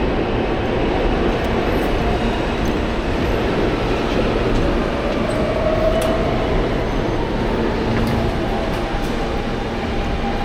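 New York City subway R train running: a steady rumble and rattle of wheels on track, with a faint whine rising about halfway through.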